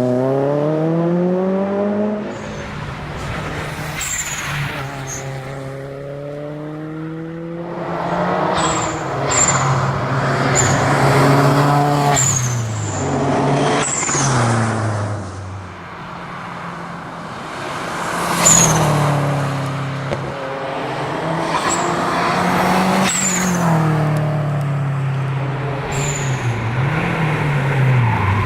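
Subaru WRX STi's turbocharged flat-four engine driven hard on a rally stage, revs climbing and then dropping again and again as it shifts and lifts for corners, with short high-pitched chirps scattered throughout.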